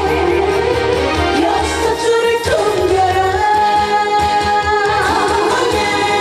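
A woman singing a Korean trot song live over band accompaniment, holding a long note from about three seconds in.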